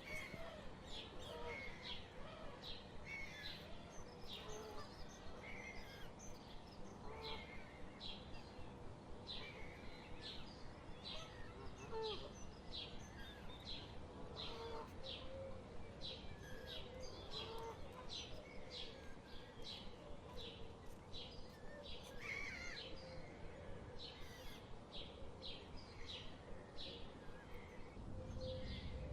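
Small birds chirping, short high calls repeated about once or twice a second throughout, over a faint steady outdoor background noise.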